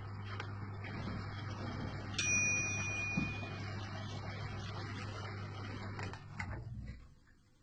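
Beko/Arçelik washing machine running a test-mode step with a steady mechanical hum, a long electronic beep from its control panel about two seconds in, and the machine falling quiet near the end.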